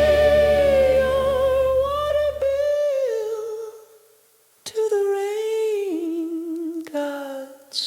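Wordless humming in a song: a long held note with vibrato over a low drone, which stops about three seconds in. After a short break, a second hummed phrase steps down in pitch.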